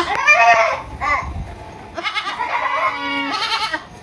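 Goat bleating: one call at the start, a brief one about a second in, then a longer bleat from about two seconds in that stops shortly before the end.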